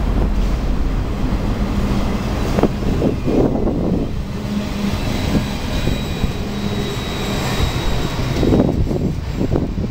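Freight train of autorack cars rolling past: a steady rumble of steel wheels on the rails, with clusters of clacks about three seconds in and again near the end.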